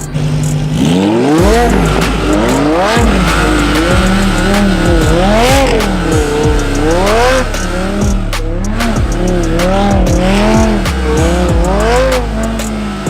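A performance car's engine revving up and down over and over, its pitch rising and falling about once a second, with tires squealing as the car spins donuts.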